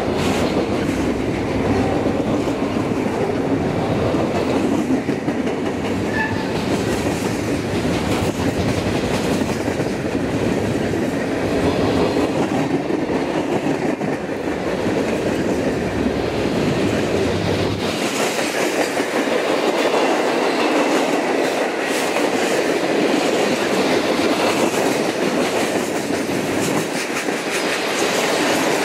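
Freight cars rolling past close by: a steady, loud rumble of steel wheels on the rails with a running clatter. About two-thirds of the way through the deep low rumble drops away, leaving a higher rattle.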